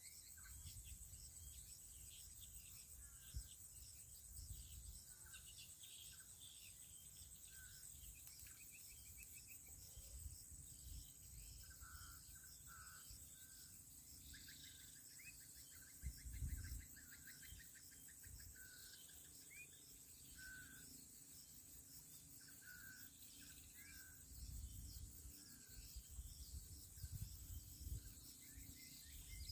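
Steady high-pitched drone of insects, with scattered short bird chirps over it and occasional low rumbles, the loudest about halfway through and near the end.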